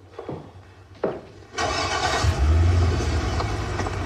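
Sports car engine starting about one and a half seconds in, catching with a loud low rumble and then running steadily.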